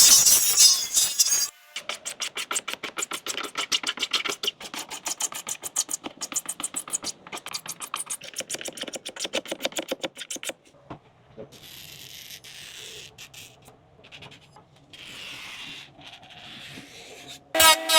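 Fast back-and-forth scraping strokes on a car headlight, about six a second. They stop about halfway through, and fainter, scattered rubbing follows.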